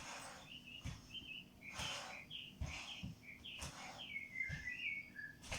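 Small birds chirping and twittering throughout. Under them, a soft thud with a brief rush of noise comes about once a second, in time with a person's steady step-exercise rhythm.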